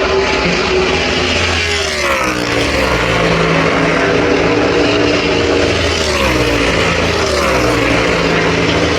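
NASCAR race vehicles' V8 engines running at speed past the track, several passing in turn, the engine pitch dropping as each goes by.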